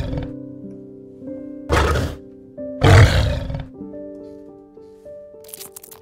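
A white lioness snoring in her sleep: two loud, rough snores about a second apart, over soft piano music.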